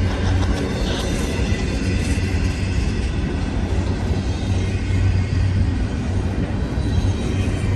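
Intermodal freight train's cars rolling past at speed, a steady rumble and rattle of wheels on the rails.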